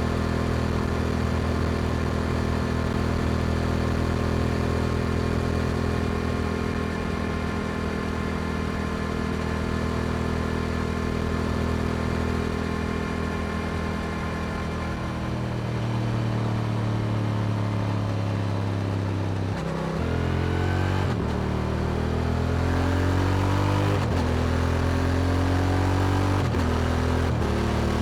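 Yamaha R7 parallel-twin engine through an Akrapovic exhaust, running steadily at cruise, then slowing with a falling engine note. From about two-thirds in it accelerates, the pitch climbing and dropping sharply at each of three upshifts.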